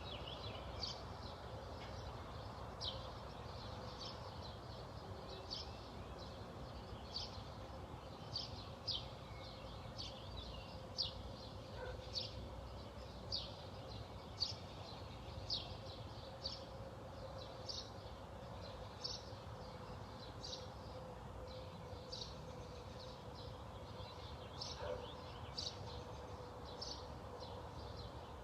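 A bird repeating a short, high chirp a little more than once a second, over faint outdoor background noise and a low steady hum.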